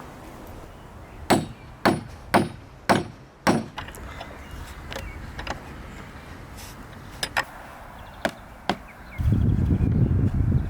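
Sharp wooden knocks, five in quick succession about half a second apart, then a few lighter taps: wooden boards and parts of a home-built wooden chair and table being knocked together. About nine seconds in, a low rumbling noise starts and runs on.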